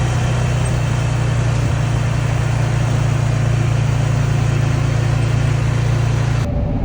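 Tractor engine running at a steady speed with a strong low hum, cutting off abruptly near the end.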